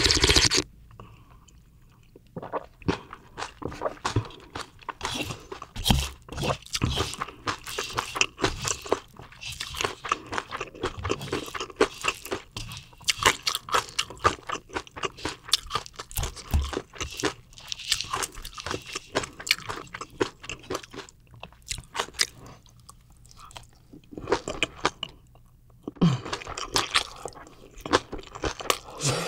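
Close-miked chewing of crunchy food, with many irregular crisp crunches and bites. A brief loud burst of noise comes right at the start, and the chewing eases off twice in the last third.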